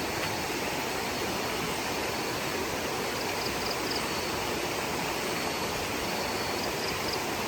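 Steady, even rush of river water. Faint high-pitched chirps come in briefly twice.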